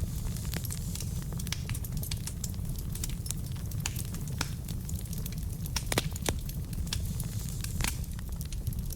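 Wood fire burning in a fireplace: a steady low rumble of flames with frequent irregular crackles and pops from the burning logs, one louder pop about six seconds in.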